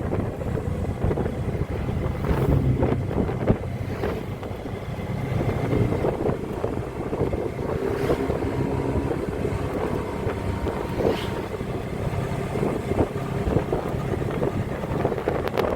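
Engine of a moving vehicle running steadily, with wind buffeting the microphone and occasional knocks and rattles.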